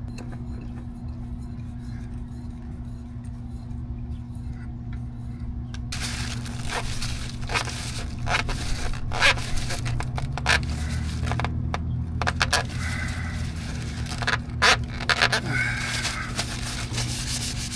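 Clicks, taps and scrapes of hand work while changing a filter on a pickup truck, starting about six seconds in, over a steady low hum.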